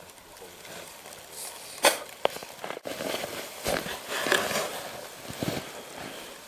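Footsteps crunching in deep fresh snow, irregular, with a sharper crunch about two seconds in.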